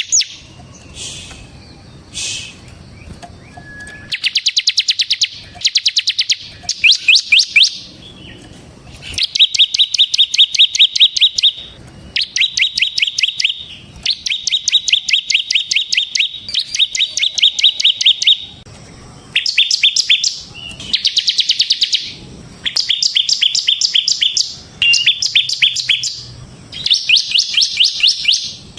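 A ciblek (prinia) singing vigorously: bursts of fast, drill-like trills of rapidly repeated high notes, one to two seconds each, with short pauses between them.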